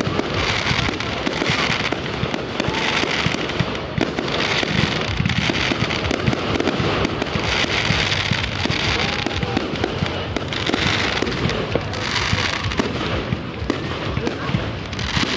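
Aerial fireworks display: shells bursting in rapid, continuous succession, with bouts of crackling every second or two.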